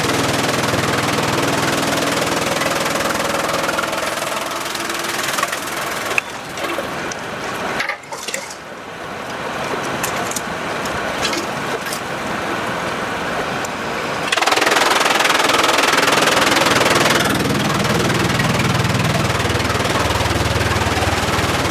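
Sawmill machinery running, with a quieter stretch in the middle broken by a string of sharp cracks and knocks, then a louder stretch of noise for about three seconds before it settles back to a steady run.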